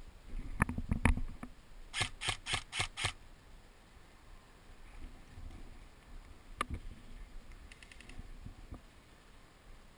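Airsoft gun firing a string of five quick sharp shots, about four a second, about two seconds in, then a single shot later. Fainter clicks and thuds come before the string, and a faint rapid run of clicks comes near the end.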